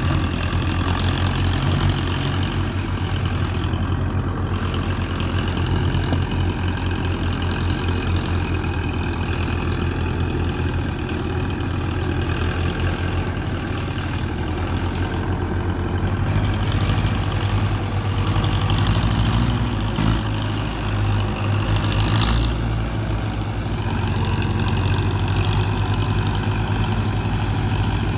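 Diesel tractor engine running steadily under load, a continuous low throb.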